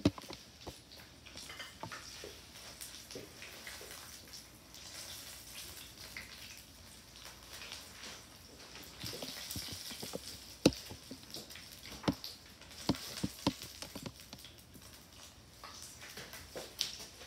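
Conch fritters shallow-frying in a pan of hot oil, a soft crackling sizzle with small spattering pops. A few sharp clicks and knocks come in the second half, the loudest about eleven seconds in.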